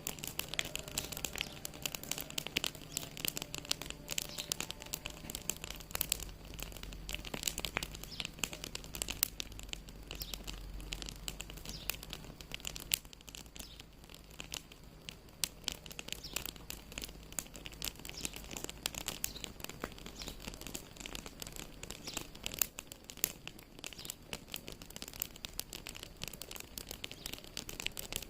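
Wood fire crackling and popping in a fireplace: a dense, irregular run of sharp crackles over a faint low rumble, easing off briefly about halfway through.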